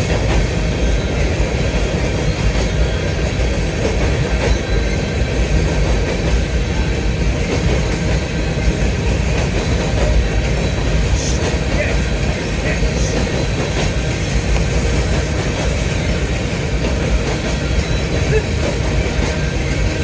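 Grain train's covered hopper cars rolling past, a steady rumble and rattle of steel wheels on the rails.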